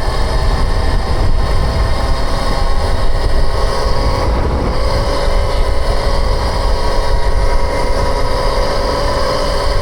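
Dirt bike being ridden at a steady pace, with a steady drivetrain whine over a heavy low rumble of wind on the microphone.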